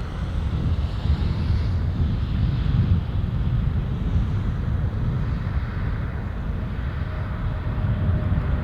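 Edelweiss Airbus A340 jet airliner rumbling on or near the wet runway, mixed with wind buffeting the microphone.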